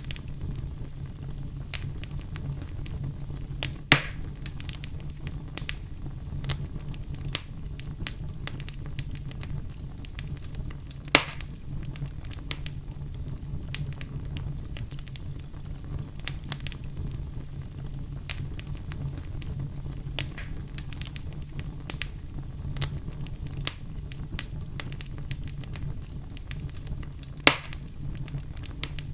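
Fireplace fire crackling over a steady low rumble, with many small ticks and three louder, sharper pops spread through it.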